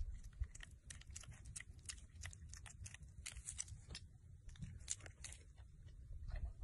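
Faint, irregular crunching clicks, like something being chewed.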